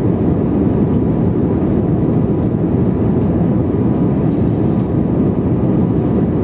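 Steady, loud rumble of a passenger jet cabin in flight: engine and airflow noise heard from inside the aircraft.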